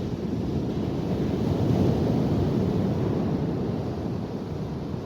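Ocean surf washing on the beach, mixed with wind buffeting the microphone; the rushing swells about two seconds in, as a wave breaks, then eases.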